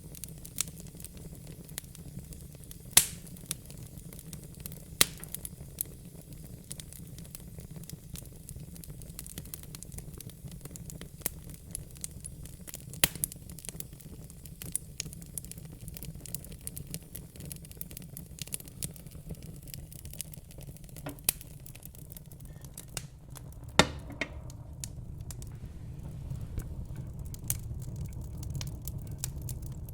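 Wood fire in a fire pit crackling and popping: frequent small pops with a few loud sharp snaps, over a low steady rumble.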